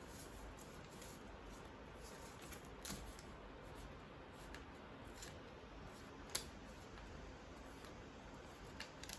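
Origami paper being folded and creased by hand: faint rustling with a few short, sharp crackles, the sharpest about six seconds in.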